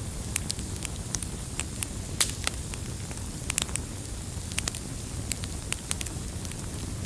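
Wood fire burning in a fireplace: a steady low roar of flames with frequent irregular crackles and sharp pops from the burning logs.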